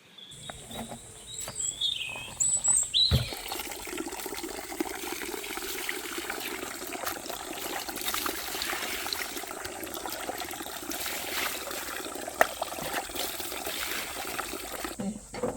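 Water running and splashing steadily, starting abruptly about three seconds in; a few bird chirps come before it.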